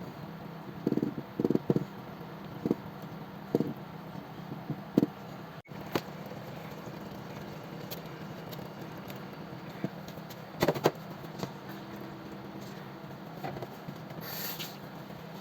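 Kitchenware being handled: scattered light knocks and clinks, about a dozen at uneven intervals, over a steady low hum, with a brief hiss near the end.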